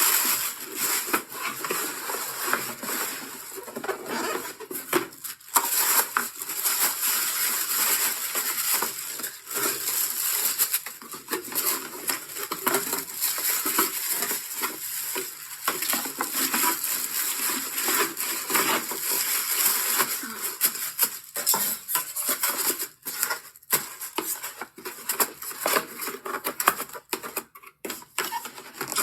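Continuous rustling and light clattering of a small boxed appliance and its packaging being handled, with many small clicks and knocks.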